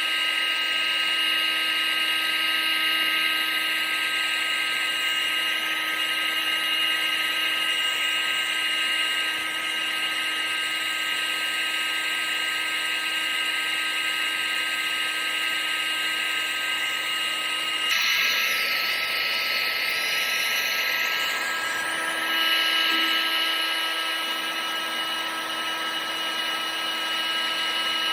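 Electric motor of a household air-blowing appliance, a vacuum cleaner or hair dryer type, running continuously: a rushing of air with a steady high whine. The whine's pitch shifts slightly about two-thirds of the way through and again a few seconds later.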